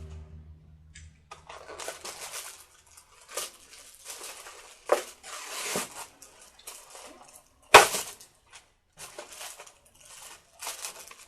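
Irregular rustling, scraping and clattering of things being handled, with one sharp knock about three quarters of the way through.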